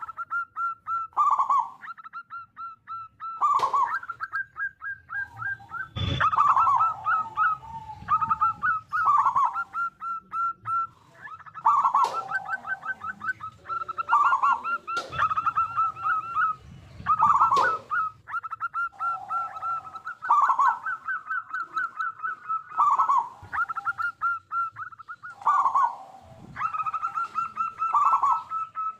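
Zebra doves (perkutut) singing: phrase after phrase of quick staccato notes running into lower, drawn-out coos, repeating every few seconds. A few sharp knocks cut in, the loudest about six seconds in.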